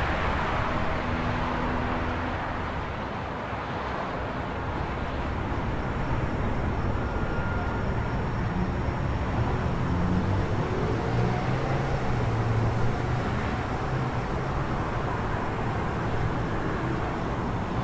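Night city ambience: a steady wash of distant traffic with a low engine rumble that swells and fades slightly.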